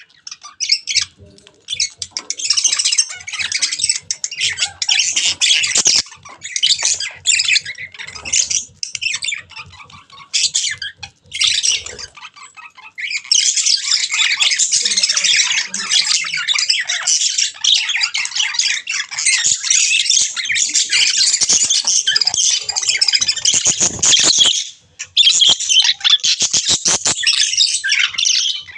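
Birds chirping and squawking in a dense, harsh high-pitched chatter, coming in stop-start bursts for the first dozen seconds, then almost without a break apart from a short pause near the end.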